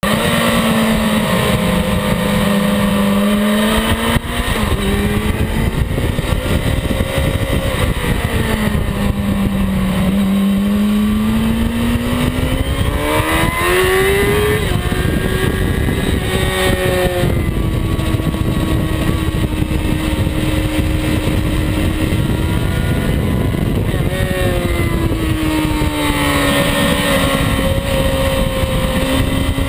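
A 600 cc inline-four supersport motorcycle engine lapping at race pace, heard from a camera on the bike. Its pitch climbs through the gears and drops on braking and downshifts, several times over, under a heavy rush of wind on the microphone, with one sharp knock about four seconds in.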